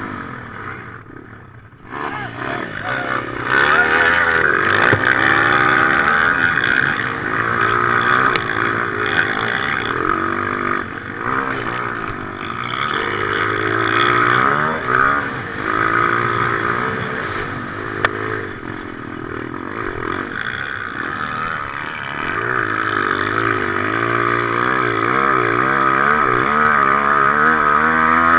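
Motocross bike engine revving hard, its pitch rising and falling over and over as the throttle is worked, heard from a head-mounted camera. The revs drop briefly at the start, then pick up and keep going.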